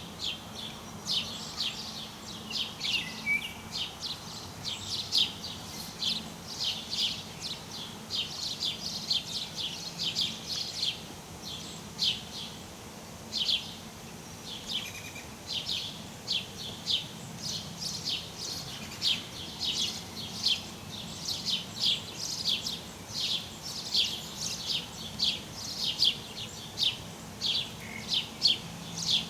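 Birds chirping: a steady stream of short, high calls, two or three a second, with a faint low hum underneath.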